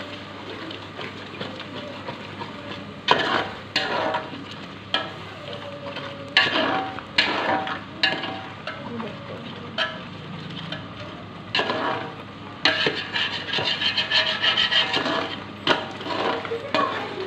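A spoon or ladle stirring and scraping chicken pieces in masala in a metal cooking pot, with irregular clanks and scrapes, quickening about two-thirds of the way through, over a low sizzle of the frying.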